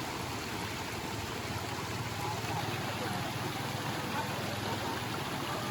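Steady rush of flowing stream water, with faint voices in the background.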